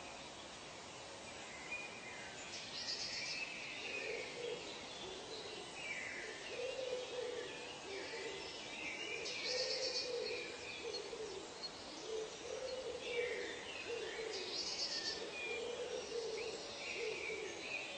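Birds calling in a forest: a run of low, repeated calls starts a few seconds in, under higher chirps and short trills that come every five or six seconds.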